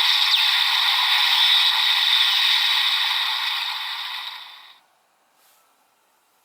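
Electronic sound effects played from a transformation toy's small built-in speaker, thin with no bass, fading out about four and a half seconds in and leaving near silence.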